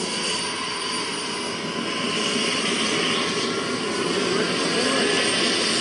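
Small gas-turbine engine of a radio-controlled Hughes 500E model helicopter running, a steady high whine over a rushing exhaust noise that grows slightly louder toward the end.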